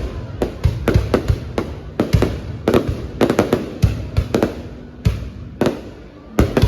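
Fireworks exploding overhead in quick, irregular bangs, several a second, with no pause.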